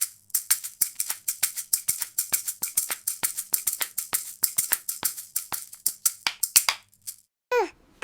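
Fast run of sharp, bright percussive taps, about six a second, like a shaker or tambourine in a cartoon soundtrack, over a faint low hum; it stops about seven seconds in. Near the end a falling, wavering cry-like sound begins.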